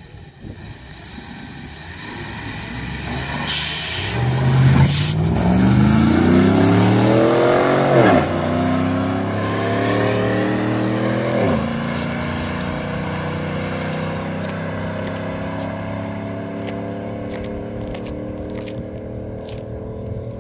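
A car's engine accelerating hard in a drag run, climbing in pitch and dropping sharply at two upshifts, about eight and twelve seconds in, then pulling steadily in a higher gear.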